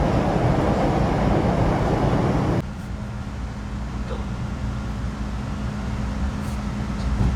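MBTA Red Line subway train in motion, a steady rumble of running noise; about two and a half seconds in it drops suddenly to a much quieter, steady hum.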